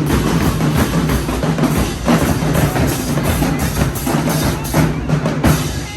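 Marching band percussion section playing a loud, fast cadence on snare and bass drums.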